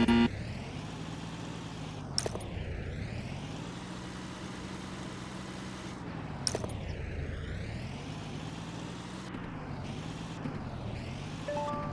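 Small motor of a DIY mini model tractor running steadily, its pitch slowly wavering up and down. It opens with a short loud tonal blip, and there are sharp clicks about two seconds in and again about six and a half seconds in.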